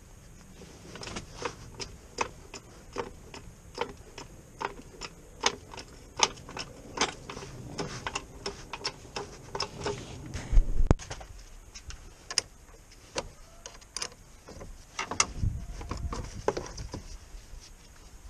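Irregular sharp metallic clicks and clinks of hand tools working on the car, about two or three a second, with a low thud a little past the middle and another near the end.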